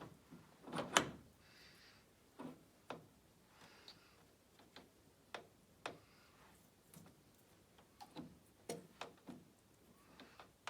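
Small metal gearbox parts being handled and set down: a dozen scattered clicks and light knocks, the loudest about a second in.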